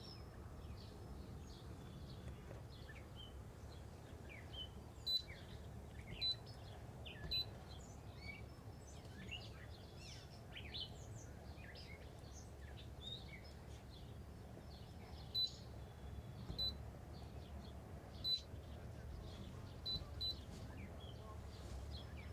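Short single-tone electronic beeps from a marine chartplotter's keys as it is operated, about eight in all in two clusters. Small birds chirp steadily behind.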